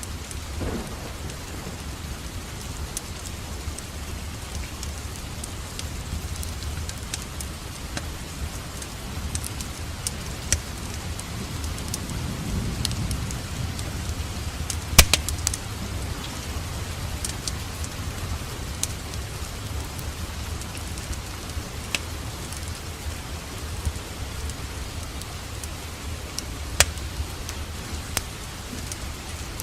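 Steady rain with a low rumble, mixed with a crackling fireplace whose sharp pops are scattered through it, the loudest about halfway.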